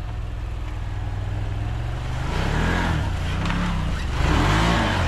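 An off-road buggy's engine running steadily, then, from about two seconds in, revved up and down in several quick bursts as it drives an obstacle.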